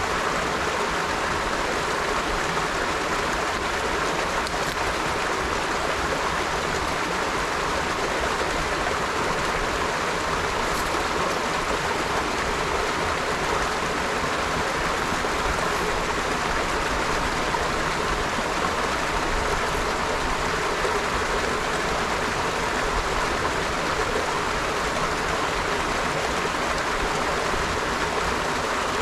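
River water flowing over stones: a steady, even rush with no breaks or changes.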